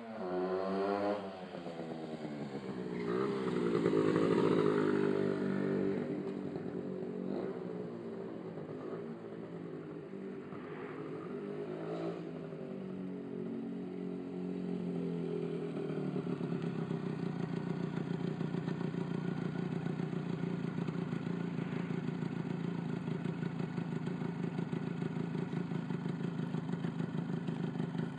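1993 Honda NS125R's 125 cc single-cylinder two-stroke engine revved with several throttle blips, then settling about halfway through to a steady idle.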